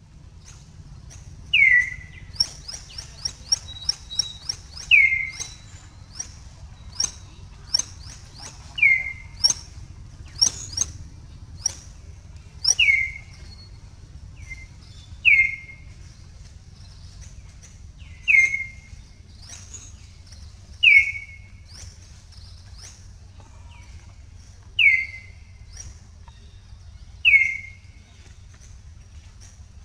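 Birds calling in forest: a short falling call repeats about every three seconds, nine times in all, over a scatter of quick high chirps and clicks, with a fast run of chirps near the start. A steady low rumble runs underneath.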